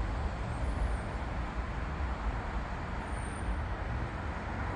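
Steady low rumble of a train rolling past.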